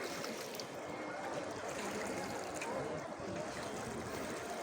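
Steady rain falling, with running and trickling water.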